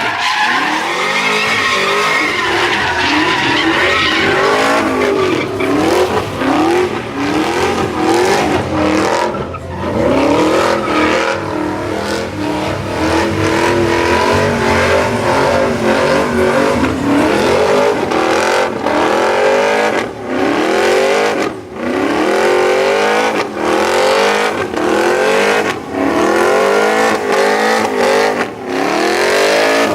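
Truck engine revved hard over and over, its pitch climbing and dropping about once a second, with tyres squealing and skidding on the pavement during a burnout or donuts.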